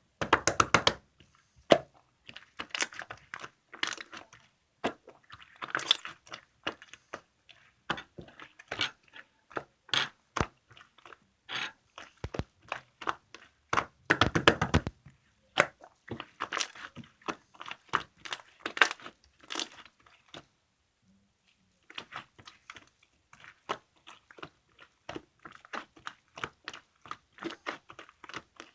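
Hands squishing and pressing an opaque slime, trapped air popping in bursts of crackling clicks, with a short lull about two-thirds of the way through.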